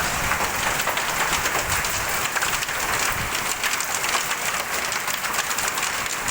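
Rain mixed with hailstones falling: a steady, dense patter of many small hits.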